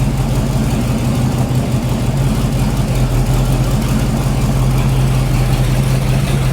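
Engine of a home-built rat rod running steadily on its first run, being timed with a timing light.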